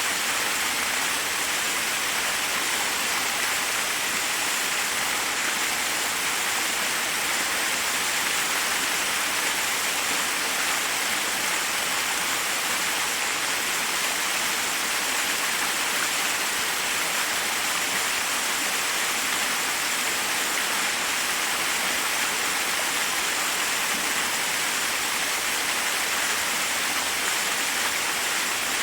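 Forest waterfall rushing over rocks: a steady, unchanging hiss of falling water, bright with little low rumble.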